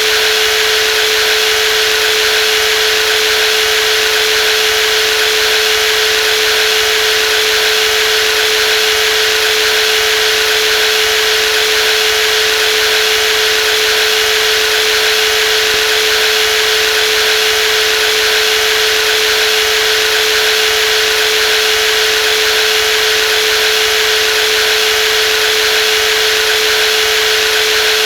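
Brushless jigsaw running at a steady speed: one constant whine over an even hiss, with no change in pitch or level.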